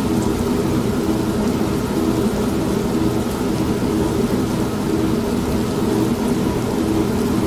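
Old manual washing machine running with a steady motor hum, mixed with steady rain.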